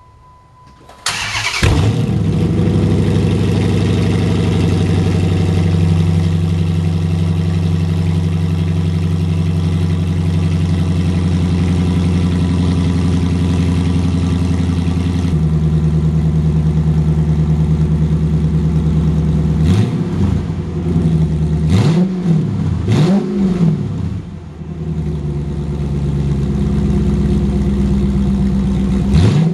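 Chrysler Hemi V8 with no exhaust past the manifolds, head pipes and catalytic converters, starting about a second in and idling loud and fast, then settling to a lower idle about halfway through. It is blipped in a few short revs later on, and once more at the very end, unmuffled.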